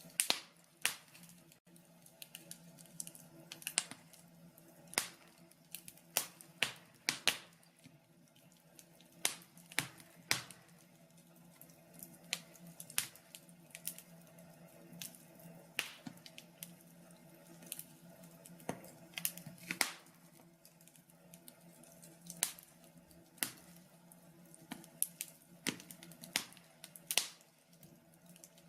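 Wood fire crackling in a log burner: irregular sharp pops and snaps, a few a second, over a faint steady hum.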